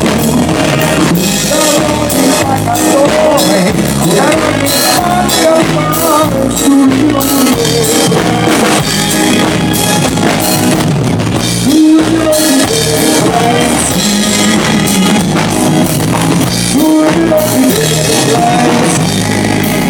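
Live pop-rock band playing a song, with a drum kit keeping the beat under a melody line.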